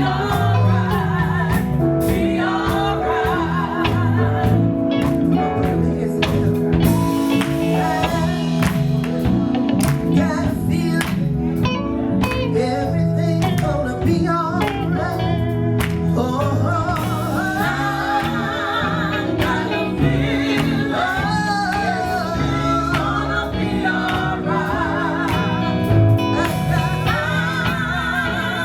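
Live gospel music: a singer with vibrato over a band playing held chords and a drum beat.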